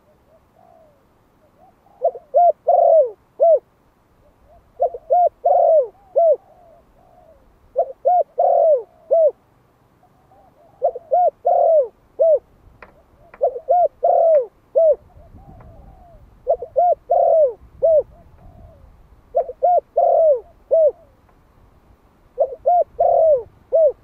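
Male spotted dove of the Malai strain, one year old, cooing its calling song: eight phrases of three or four low, falling coos, one phrase about every three seconds. It is the song used on a decoy bird to provoke wild doves.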